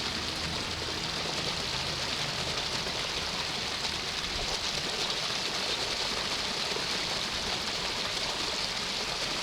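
Small waterfall rushing steadily into a pond, a continuous hiss of falling water.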